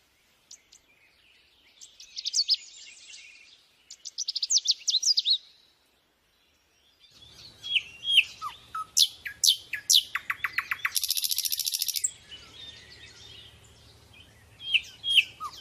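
Sunbird (kolibri) singing in fast bouts of high chirps and sharply falling notes, with a rapid buzzy trill near the middle of the second bout.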